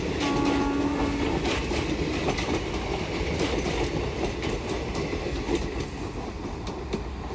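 Express train's coaches rolling along the track, wheels clicking rhythmically over rail joints with a steady rumble. A short steady tone sounds for about a second near the start.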